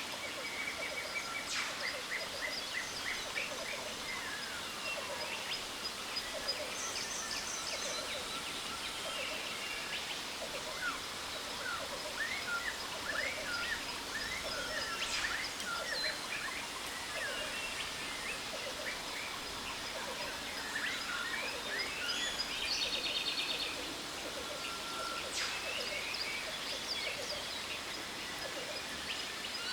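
Jungle ambience: many birds calling, with chirps, fast trills and a few falling whistles, over the steady rush of a waterfall.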